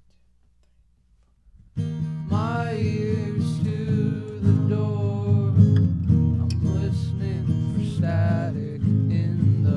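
Instrumental opening of an indie-folk song: after near silence, acoustic guitar comes in about two seconds in and keeps playing, with a higher melody line that bends in pitch above it.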